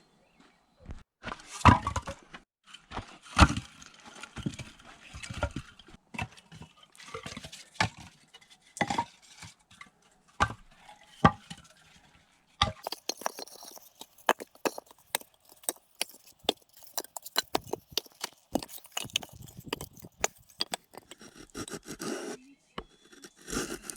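Wood knocked and scraped as firewood is handled at a homemade stone stove being lit for the first time, with a few heavier thumps early on. About halfway through, this gives way to a dense run of small, quick snaps and crackles, typical of kindling catching in the firebox.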